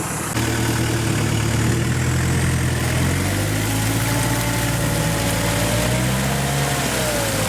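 Off-road 4x4's engine running steadily, picking up a little about half a second in, with a thin whine that wavers in pitch from about four seconds in.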